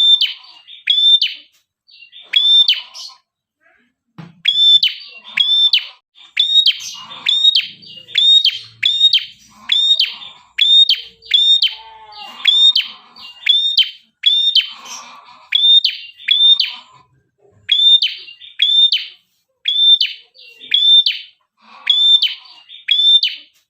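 Prinia (prenjak kepala merah) singing loudly: a fast, steady run of sharp, clipped chirps, about two a second, with a brief pause a few seconds in, used as a lure call to draw other prinias.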